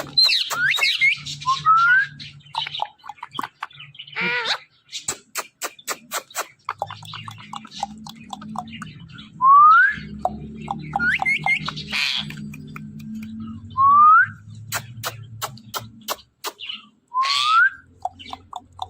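Ringneck parrot whistling: four loud, short whistles that each glide upward, with squeaky chirps and quick runs of clicks between them.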